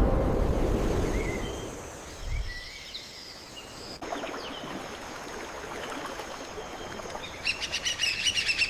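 Music fading out in the first second or two, then outdoor nature ambience with birds chirping and whistling here and there. The chirping grows busier and louder near the end.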